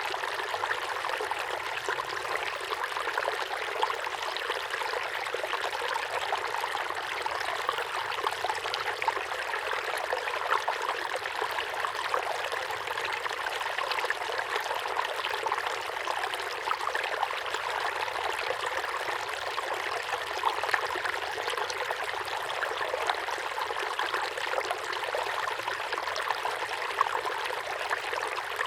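Small waterfall pouring steadily into a pond, a continuous splashing and trickling of falling water.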